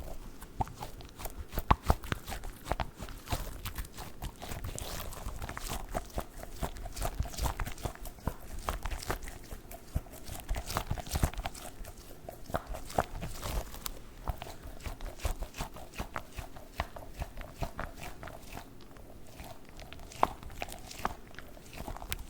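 Close-miked squeezing and squishing of a soft squishy dog toy: a dense run of small irregular crackles and squishes.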